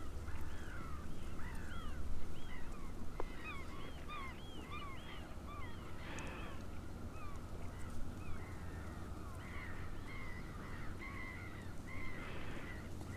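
Birds calling: many short, arching calls, several at once and overlapping, over a steady low rumble.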